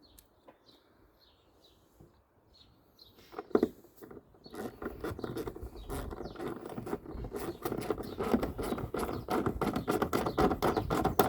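A ratchet spanner clicking rapidly as a 10 mm nut is run back on to hold the rear light, after a single knock about three seconds in. Faint birdsong is heard during the quiet start.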